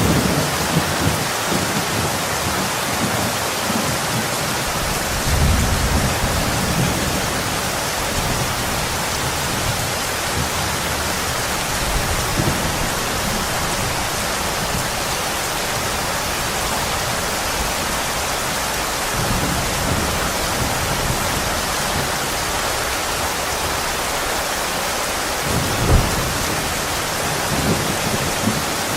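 Steady heavy rain, with low rumbles of distant thunder swelling now and then and one sharper clap near the end.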